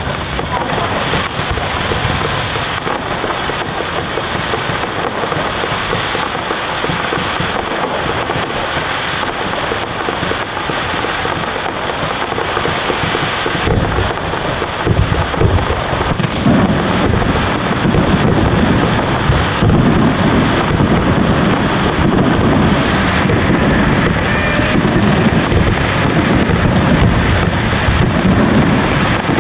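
Fireworks display going off continuously: dense crackling with rolling low booms that grow heavier about halfway through.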